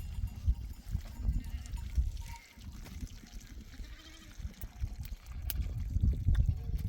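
Goats bleating faintly a few times over a low, uneven rumble.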